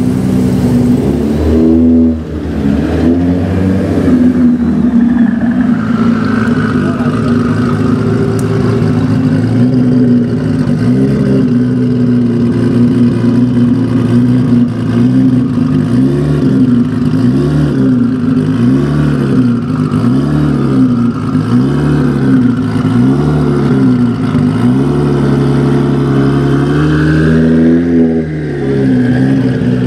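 Tuned 1850 hp Nissan GT-R's twin-turbo V6 idling and being revved. After a steady idle, it gives a run of about seven rev blips roughly a second and a half apart. Near the end a longer rev drops off sharply.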